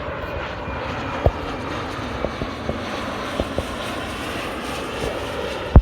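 Large business jet on final approach: steady jet engine noise, broken by a few short clicks and a loud knock at the very end.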